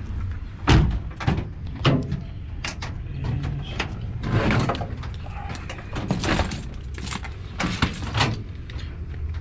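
Repeated knocks, clunks and rustling of tools and gear being moved and rummaged through while searching for a tool bag, over a steady low hum.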